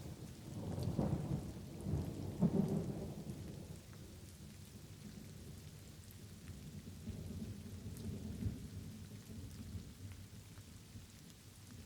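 Light rain falling steadily, with a roll of thunder that swells in the first few seconds and a weaker rumble later on.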